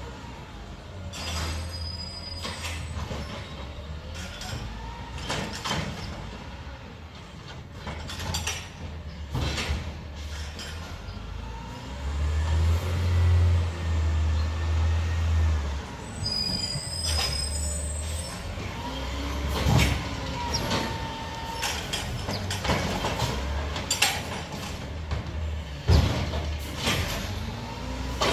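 Garbage truck at work: its diesel engine running and revving up for a few seconds midway, with rising and falling hydraulic whines and repeated metallic clanks and bangs.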